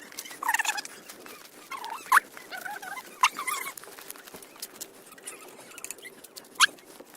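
Short animal calls, a run of brief pitched calls in the first few seconds, with sharp high squeaks about two, three and six and a half seconds in.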